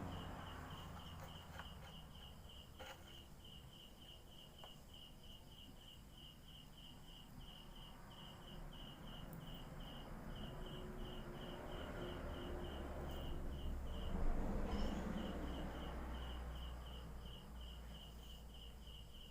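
Insect chirping steadily: one high-pitched note pulsing about three times a second, pausing briefly about fourteen seconds in. Under it, a low rumbling noise swells and fades in the middle.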